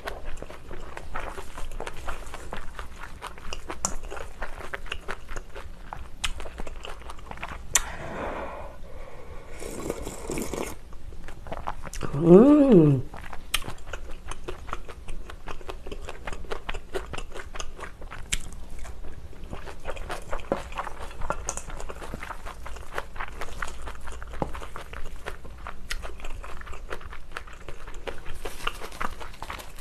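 Close-miked chewing of a spicy bibimbap, with wet crunching and small mouth clicks throughout. About twelve seconds in there is a short hum that rises and falls in pitch, the loudest sound here.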